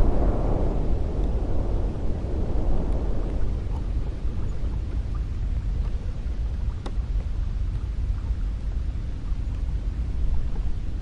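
Cold wind blowing: a steady low rumble, with a gust that dies away over the first few seconds, and a faint click about seven seconds in.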